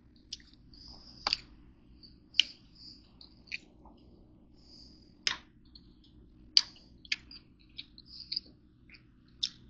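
Irregular sharp clicks and taps, about ten of them at uneven spacing, over a faint steady low hum.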